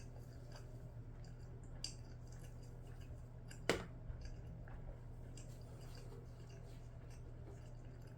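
Quiet eating sounds: sharp clicks of a utensil against a dish, twice, the second and louder about three and a half seconds in, with a few fainter ticks and faint chewing over a low steady hum.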